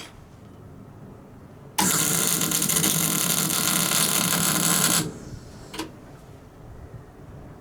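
A metalworking power tool runs in one loud burst of about three seconds, starting and stopping abruptly.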